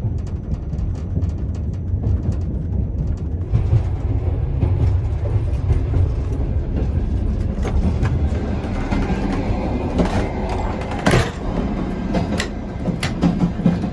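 Passenger train running on the rails: a steady low rumble with scattered clacks and knocks of the wheels over the track, and one sharper knock near the end.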